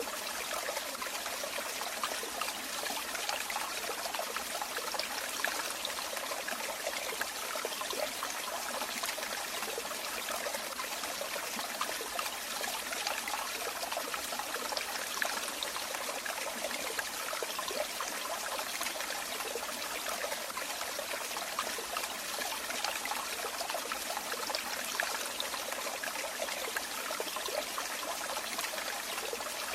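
Running water trickling and splashing without pause: an even rushing hiss with fine bubbling detail and almost no low rumble.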